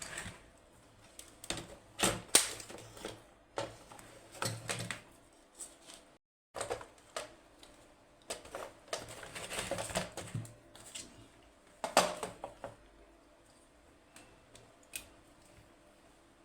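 Irregular clicks, taps and knocks of hands handling and fitting parts of a robot vacuum, with a brief dropout about six seconds in.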